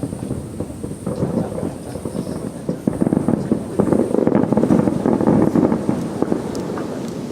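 Distant aerial fireworks bursting in rapid succession, the many booms and crackles running together into a rumble that grows louder about three seconds in.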